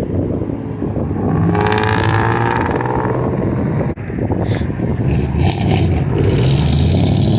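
Car engine revving loudly, its pitch climbing about a second and a half in. There is a brief drop near four seconds, then a steady loud engine note.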